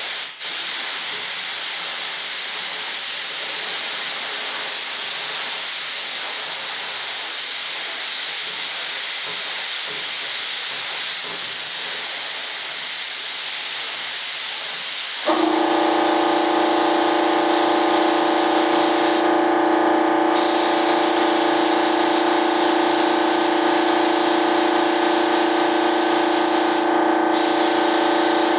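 Spray gun hissing steadily as it sprays epoxy primer. About halfway through, a steady machine drone with several fixed pitches starts abruptly and runs on underneath, likely an air compressor kicking on. The spray hiss stops briefly twice near the end, as the trigger is let off.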